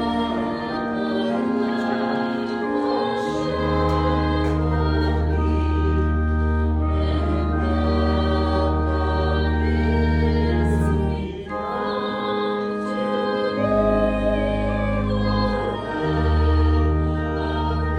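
Voices singing a hymn together over an accompaniment that holds long, steady bass notes, changing every few seconds.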